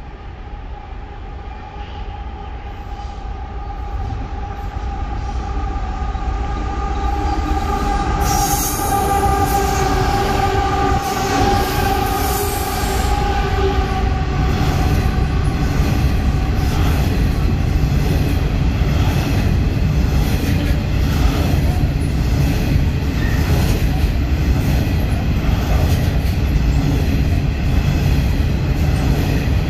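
Freight train of coal hopper wagons approaching and passing through a station. The sound grows louder over the first ten seconds or so as the train draws near, then holds as a steady rumble of the wagons rolling past on the rails.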